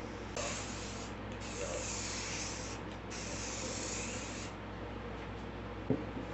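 Aerosol spray can hissing in three bursts, the longest about a second and a half, with a single light tap near the end.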